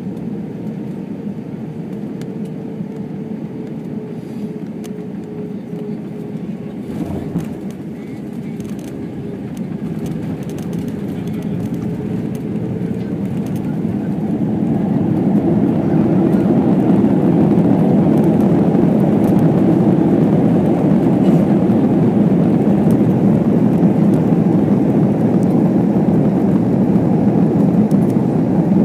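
Airbus A320 cabin noise during landing: a steady low rushing with a faint tone that fades out, a single knock about seven seconds in, then the noise swells much louder about fifteen seconds in and stays loud.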